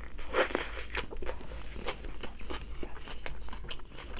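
Close-up chewing of crunchy food, an irregular run of many short crisp crunches.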